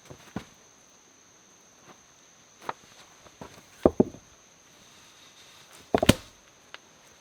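Scattered sharp knocks and thumps, loudest as two quick double knocks about four seconds in and again about six seconds in, over a steady high insect drone.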